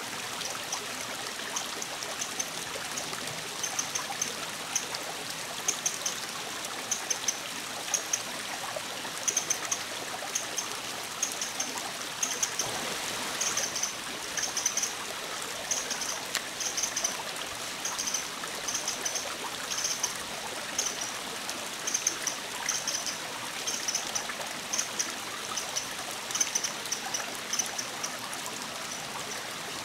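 Eurasian wren giving its short, high call notes, repeated about once a second, often two or three together, over the steady rush of a stream.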